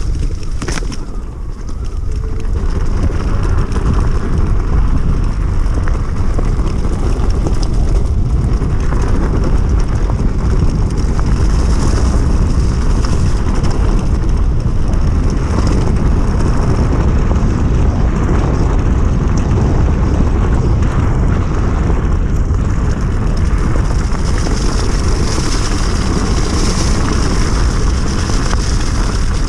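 Steady rush of wind and tyre noise from an electric enduro bike being ridden along, heaviest in the low end. It dips briefly about a second in, then picks up and holds.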